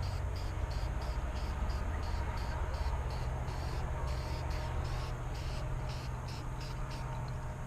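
Insects chirping in an even rhythm, about five pulses a second, over a steady low rumble.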